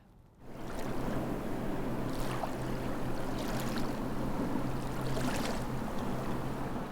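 Water splashing and lapping around a kayak, with brief splashes about every one and a half seconds, like paddle strokes, over a steady low hum.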